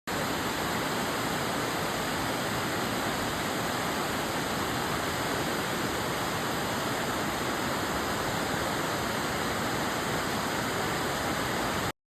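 Steady rush of water from a forest waterfall, a constant even roar that starts and cuts off abruptly.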